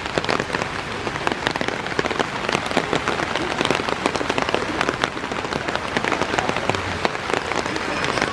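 Steady rain falling, with a dense patter of drops striking close by.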